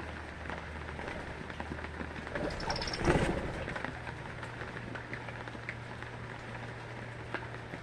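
Steady rain falling, with scattered drips ticking. About two and a half seconds in, a brief high bird chirp sounds, followed by a louder burst of noise.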